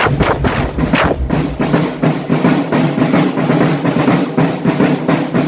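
Marching drum band playing: fast, steady drum strikes with sustained low tones underneath.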